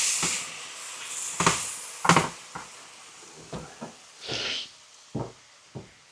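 Stir-fry pan of chicken and sauce sizzling, the hiss dying down after the heat is switched off, with several separate knocks and clatters of kitchen items being handled.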